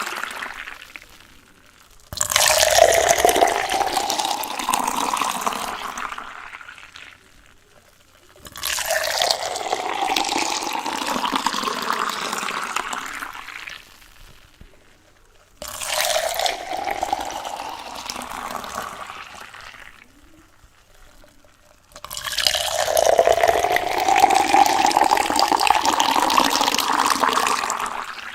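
Water poured into a container four times, each pour lasting a few seconds, its pitch rising as the vessel fills, then tapering off before the next.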